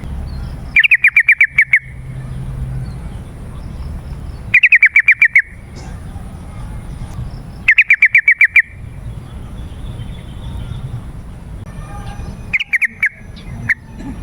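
Yellow-vented bulbul (trucukan) song: three loud bursts of rapid, slightly falling chattering notes, each about a second long and a few seconds apart, then a shorter, softer phrase near the end.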